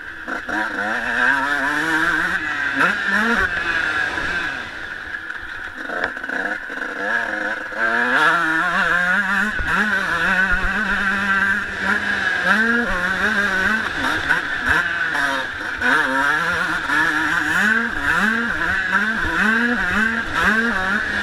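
Honda CR125 two-stroke single-cylinder motocross engine revving hard under a riding rider, its pitch climbing and dropping again and again as he works the throttle and gears. It eases off briefly about six seconds in, and near the end comes a quick run of short rising revs.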